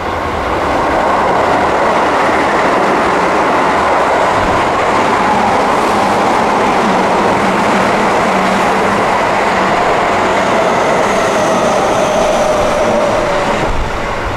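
Keio 9000 series electric train running through a station at speed without stopping: a steady rush of wheels on rail, with a whine that slowly falls in pitch. The sound cuts off suddenly near the end.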